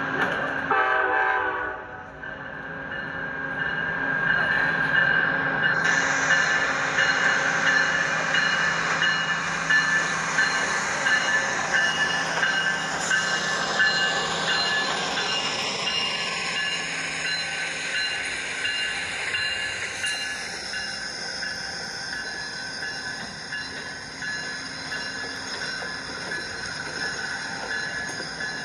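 A train passing close by: a continuous noise of wheels and cars, with several high steady tones held over it. About a second in there is a short sound with many evenly spaced overtones that fades out by two seconds.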